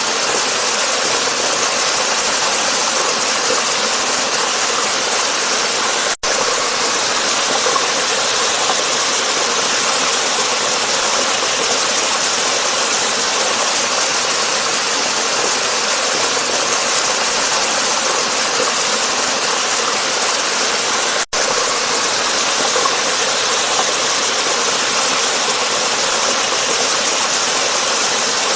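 Waterfall rushing in a steady, dense roar of falling water, cutting out for a split second twice, about six and about twenty-one seconds in.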